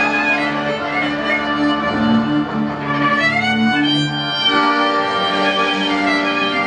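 Klezmer band playing an instrumental passage, a fiddle carrying the melody over held lower notes, with a rising slide about halfway through.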